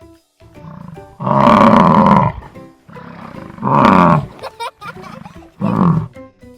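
A large animal calling three times in loud, drawn-out bellows, the first and longest about a second, over background music.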